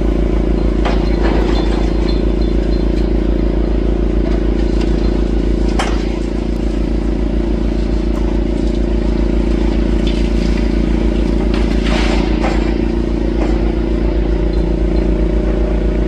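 Demolition excavator working on a building, its diesel engine running steadily, with a few sharp knocks and clatters of breaking debris, the loudest about six and twelve seconds in.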